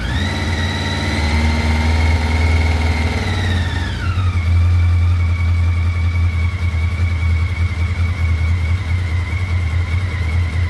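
Motorcycle engine running with freshly cleaned carburettors: revved up at the start, held for about three and a half seconds, then dropping back to a steady idle. It takes the throttle without dying.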